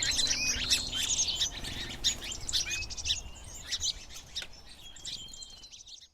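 Songbirds chirping and trilling, many short overlapping calls, fading away and stopping just before the end. Under them in the first second or two, the final chord of a banjo-and-guitar tune rings out and dies away.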